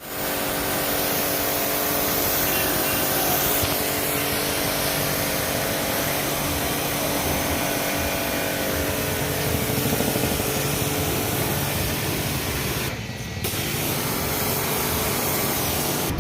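Steady loud hiss like a spray or air jet, over a steady machine hum; it drops off briefly about 13 seconds in, then resumes.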